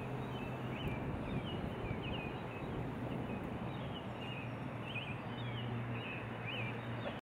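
Outdoor ambience: a bird chirping over and over, short high chirps roughly twice a second, over a steady hiss and a low hum. It cuts off suddenly near the end.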